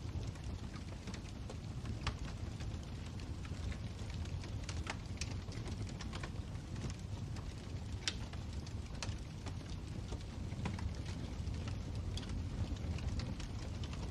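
Wood fire burning in a fireplace: a steady low rumble of flames with irregular sharp crackles and pops, the sharpest about eight seconds in.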